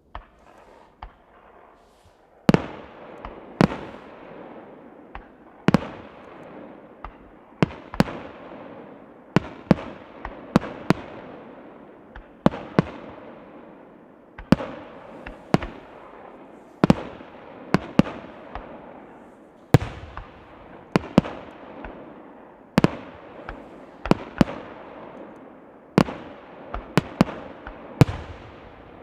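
Aerial firework shells bursting in quick succession: a few faint pops at first, then from about two and a half seconds in a steady barrage of sharp bangs, one or two a second, each trailed by an echo, with crackling between them.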